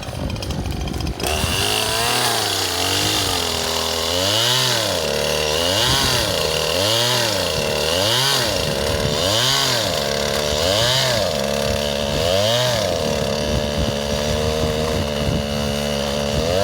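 Two-stroke chainsaw revving up about a second in and cutting wood. Its engine speed rises and falls about every second and a quarter, then holds steadier near the end. The saw barely works and bogs in the cut when the throttle is not held full.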